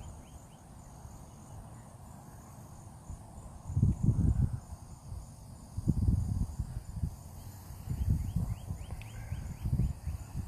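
Insects chirping steadily in rapid, even pulses, with a few short chirp trains. Low rumbling gusts of wind hit the microphone several times from about four seconds in.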